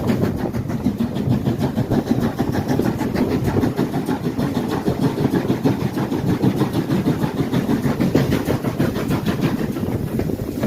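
Railway train running: a steady loud rumble with a rapid rattle.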